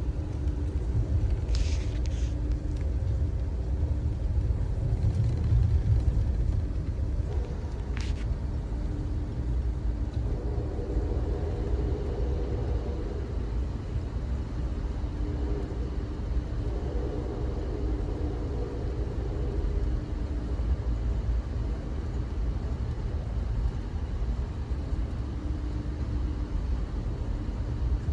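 Steady low rumble of the Amtrak Auto Train rolling along, heard from on board, with a faint hum that swells and fades. A short scratchy noise comes about two seconds in and a sharp click at about eight seconds.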